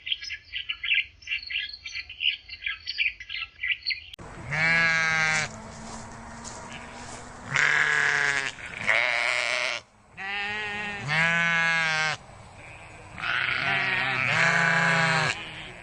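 Rapid, high bird chirping. Then, after a cut about four seconds in, a farm animal bleats loudly again and again, in wavering calls about a second long each.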